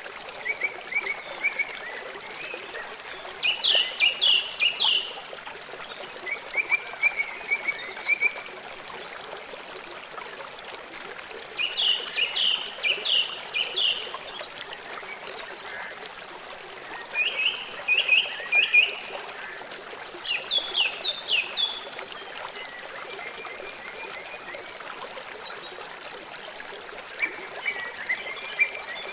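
A stream running steadily, with a songbird singing short phrases of quick, falling notes about every few seconds over it.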